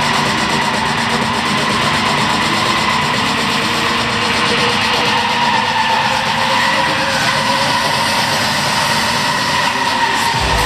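Nissan 350Z and Skyline R33 drift cars' engines running hard as they drift together, a loud, steady, dense engine noise.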